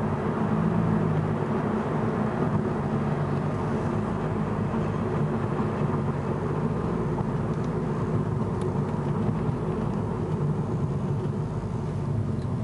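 Hyundai Genesis Coupe's 2.0 L turbocharged four-cylinder engine and Magnaflow 16478 cat-back exhaust, heard from inside the cabin with the windows up while cruising at a steady pace. It is a low, deep, mellow hum without drone, mixed with road noise.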